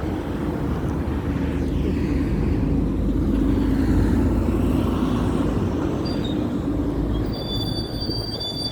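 Road traffic: a passing vehicle's low rumble swells to a peak about four seconds in and fades again, with a short high-pitched squeal near the end.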